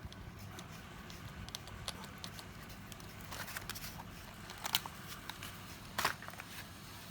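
Small hard parts handled on a workbench: scattered light clicks and taps, with two sharper clicks in the second half, over a low steady hum.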